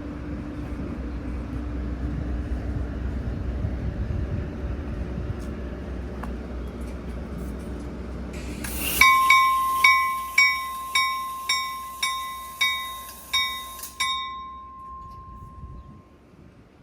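A train rumbles steadily, then about nine seconds in a railway bell starts ringing, roughly nine strikes over five seconds, each ringing on before the tone fades out.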